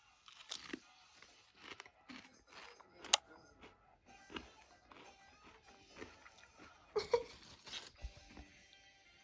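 Potato chips being bitten and chewed, with irregular crisp crunches, the sharpest about three seconds in and a cluster near seven seconds, over faint background music.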